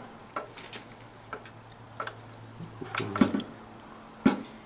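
Scattered light clicks and knocks of metal parts and hand tools being handled during engine assembly, irregularly spaced with the sharpest one near the end, over a steady low hum.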